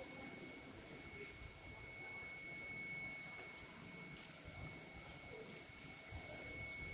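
A bird repeating a short, high, falling two-note call three times, a little over two seconds apart. Beneath it runs a faint steady thin high tone and a low rumble.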